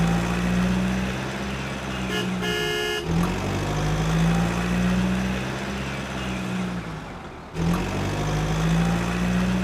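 A vehicle engine hum running steadily with a slight rise and fall in pitch, broken by one short horn toot about two and a half seconds in. The sound cuts off and starts again about seven and a half seconds in.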